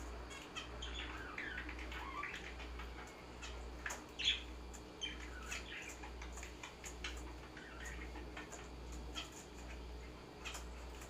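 Small caged pet birds, finches and parakeets, chirping and calling in short, gliding notes, with scattered sharp clicks, one louder chirp about four seconds in, and a steady low hum underneath.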